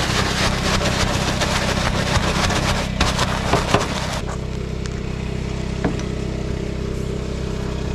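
Generator engine running steadily in the background. For the first four seconds a loud scratchy hiss lies over it, then stops.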